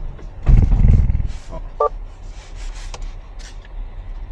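Toyota GR86's 2.4-litre flat-four stalling: a loud, low shudder lasting under a second as the engine dies, caught with the clutch out in a manual car. A short beep follows just afterwards.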